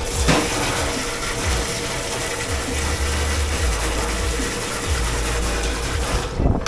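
Water spraying hard in a dish pit, as from a pre-rinse spray hose, switching on abruptly and cutting off after about six and a half seconds.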